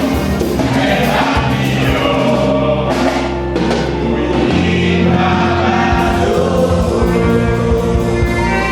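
A choir singing a gospel song, with a steady low bass under the voices.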